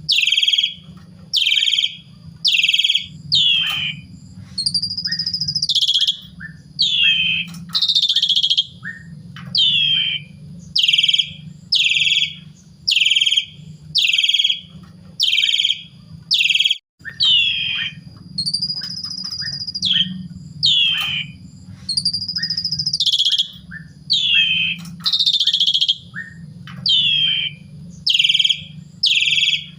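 Javan pied starling (jalak suren) singing: a long run of sharp, falling chirps about once a second, broken a few times by longer drawn whistles that rise and fall. A steady low hum runs underneath.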